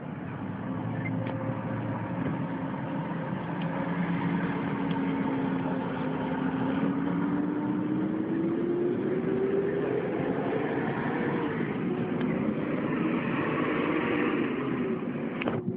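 Vehicle engine and road noise while driving, the engine note climbing between about six and ten seconds in as the vehicle speeds up, then wavering.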